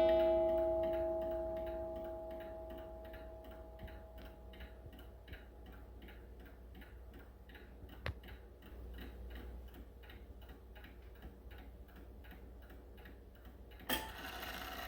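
Seth Thomas beehive mantel clock ticking steadily, with the ring of its hour strike fading away over the first few seconds. There is a single sharp click about halfway through and another near the end.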